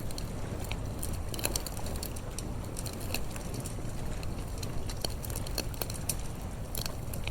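Wood campfire crackling, with irregular small pops and snaps over a steady low rumble.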